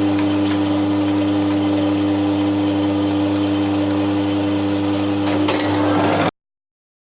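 Milling machine running with a steady, loud hum while it machines the edge of a cast iron bandsaw table. It stops abruptly about six seconds in.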